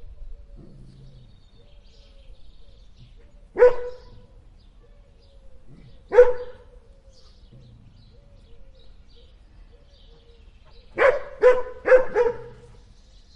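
A dog barking: single barks about four and six seconds in, then three quick barks near the end.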